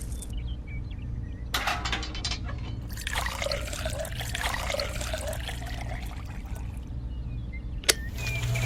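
Water trickling and pouring in small splashy spells over a steady low hum, with a sharp click near the end.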